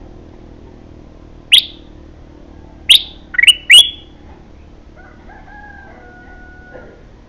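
Bulbul (kutilang) calling: four loud, sharp, very short downward-sweeping calls, the last three close together, then a fainter drawn-out call near the end, over a low steady hum.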